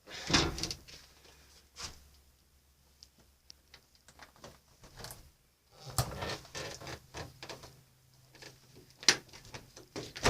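Scattered knocks, clicks and scrapes of things being handled, with short louder bursts about half a second in, around six seconds and around nine seconds.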